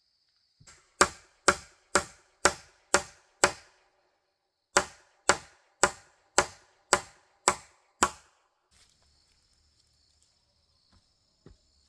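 A hand tool striking wood in two runs of sharp blows, about two a second: six strokes, a short pause, then seven more. A steady insect drone is heard before the blows and comes back after them.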